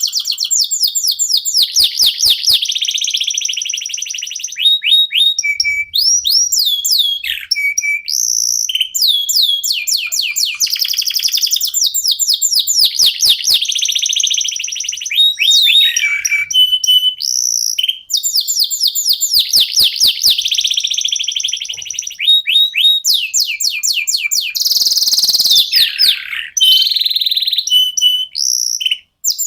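Domestic canary (Indonesian local canary) singing nonstop: long, fast trills of repeated high sweeping notes, run together in changing phrases with only brief pauses.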